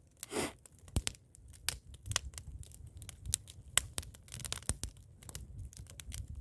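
Bonfire of firewood burning, crackling and popping with sharp, irregular cracks over a low steady rumble.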